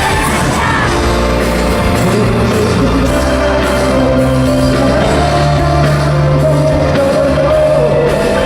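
Live pop music at a concert: singing over a backing band, with yells from the audience.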